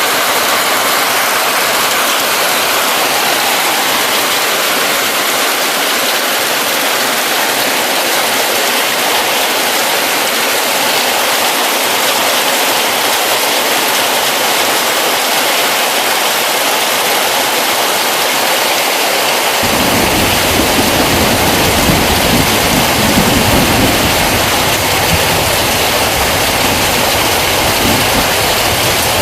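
Heavy rain pouring down in a steady loud hiss. About two-thirds of the way in a deep low rumble starts abruptly and carries on under the rain almost to the end.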